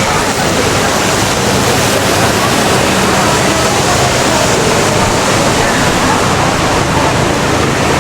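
Busy city street ambience: a steady, dense wash of noise with the murmur of many voices blended into it.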